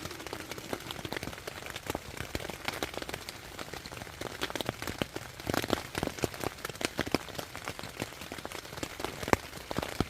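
Rain pattering on a tent, heard from inside: a dense, irregular run of drops tapping the fabric, with a few louder strikes standing out.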